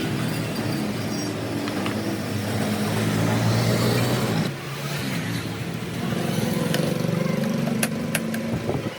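A motor running with a steady low hum that drops away about four and a half seconds in and picks up again, with a few sharp clicks near the end.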